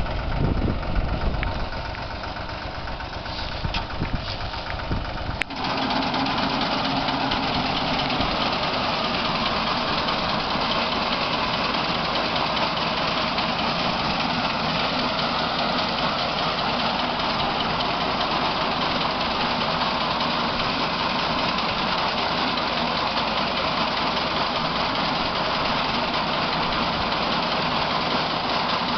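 Tractor engine running with a tractor-mounted wheat reaper. About five seconds in, the sound changes abruptly to a louder, steady machine noise.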